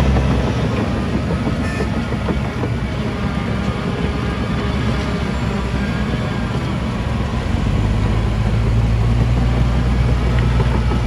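Heavy diesel engine of earthmoving machinery running, its low note growing louder and steadier about two-thirds of the way in as it takes more load or revs.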